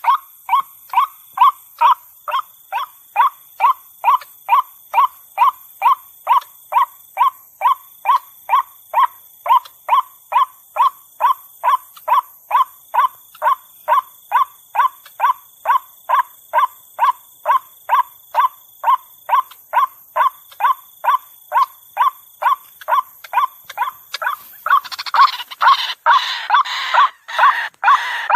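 White-breasted waterhen (ruak-ruak) calling: the same short note repeated monotonously about twice a second. A little after 24 seconds in, the calls grow denser and harsher and overlap one another.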